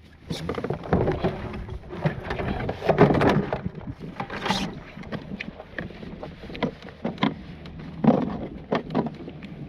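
Water splashing and sloshing around a kayak, with irregular knocks and clatter of gear being handled aboard.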